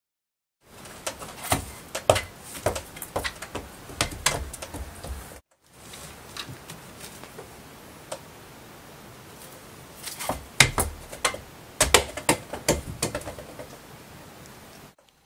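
Irregular sharp clicks and taps in a small room, in two stretches with a brief break about five seconds in.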